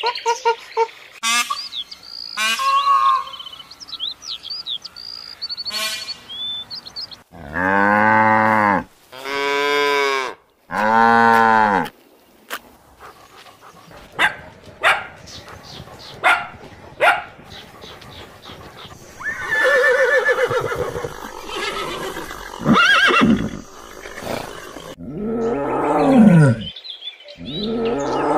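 A run of different animal calls, one after another. First sheep bleating, then three long, deep lowing calls of cattle, then short dog barks from a pack of St. Bernards, and near the end the barking brays of zebras, falling in pitch.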